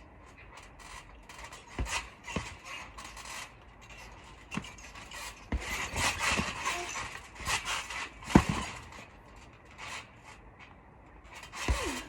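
Trampoline in use: irregular thumps of bodies landing on the mat, with rubbing, scraping and creaking from the springs and frame. One sharp, loud thump comes a little past the middle.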